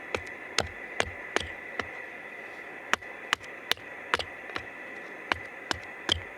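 Sharp knocks of a tool striking wood, irregular, about two a second, over a steady hiss with a faint high tone.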